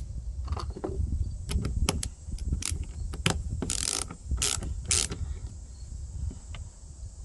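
Small metal carburetor parts being handled and cleaned: light clicks and clinks, with three short hissing strokes a little before the middle.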